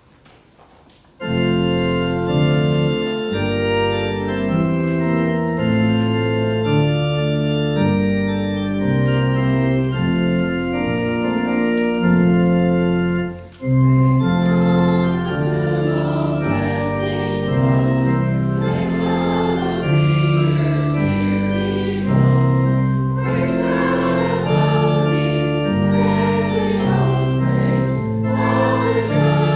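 Organ playing sustained hymn chords, starting suddenly about a second in. After a brief break about halfway through, voices begin singing with the organ.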